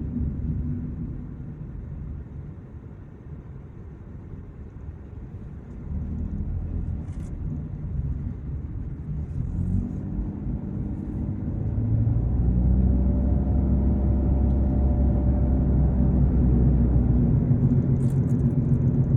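Car driving on the road: low engine and road rumble that grows louder about six seconds in. The engine note rises as the car speeds up, then holds a steady, louder drone from about twelve seconds.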